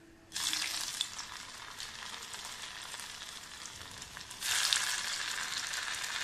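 Maswadi pieces sizzling as they go one at a time into shallow hot oil in a small kadhai. The crackling sizzle starts suddenly about half a second in and grows louder a little past four seconds as the second piece goes in.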